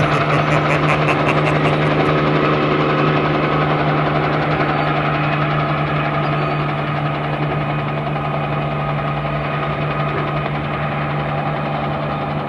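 Superbike engine running at steady, unchanging revs, with no rise or fall in pitch. A short run of regular faint ticks sits over it in the first two seconds.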